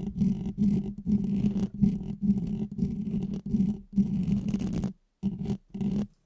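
Rapid repeated scraping strokes, each carrying a steady low hum, with short breaks between them; two shorter strokes near the end, then it stops suddenly.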